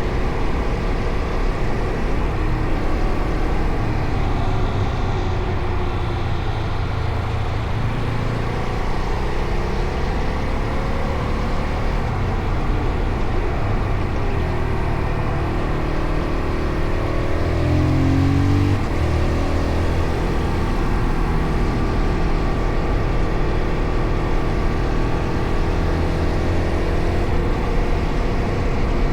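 Fantic Caballero Rally 500's single-cylinder four-stroke engine running on the move; its pitch climbs for a couple of seconds about sixteen seconds in, then falls suddenly.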